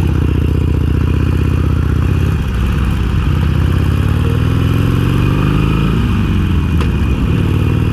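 Stock Harley-Davidson Iron 883's air-cooled V-twin engine running, its pitch sliding up and down with the throttle through the middle, then settling steady again near the end.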